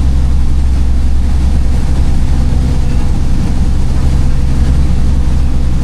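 Ship's engines running, a loud, steady low drone with an even hum that does not change.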